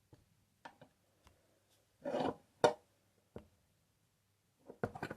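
Small metal parts being handled at a bench vise: scattered light clicks and knocks, a short scrape about two seconds in and a sharp click right after it, and a cluster of clicks near the end.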